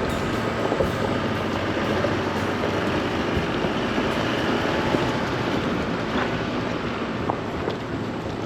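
Pickup truck driving on a gravel trail: steady tyre and engine noise with a few faint knocks, likely gravel or the body jolting.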